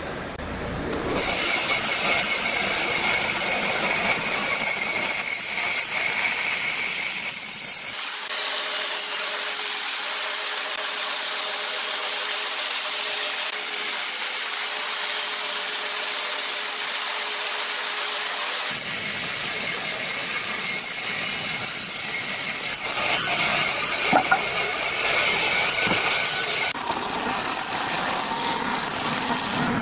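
Power woodworking machinery running steadily, its sound changing abruptly at several points.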